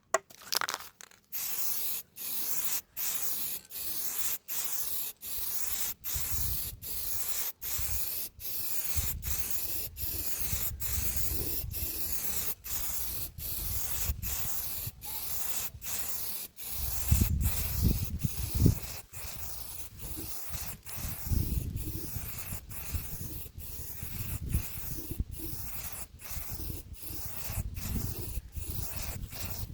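Abrasive paper rubbed back and forth over wood by hand, an even rasping stroke about every two-thirds of a second with a brief pause at each change of direction. A few duller knocks come about two-thirds of the way through.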